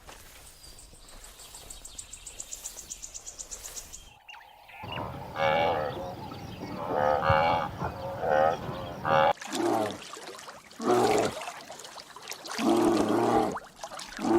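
Cattle mooing: a series of drawn-out, wavering calls, the later ones deeper. They follow a few seconds of faint, rapid high ticking.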